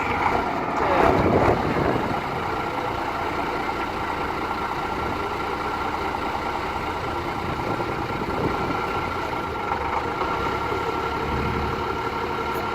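A heavy truck engine running steadily, with a constant high whine over it. It is louder and busier for about the first two seconds, then settles.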